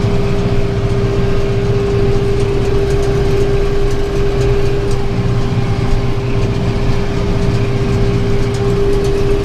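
Tractor running steadily under load while pulling a working round baler. A steady whine sits over the engine hum.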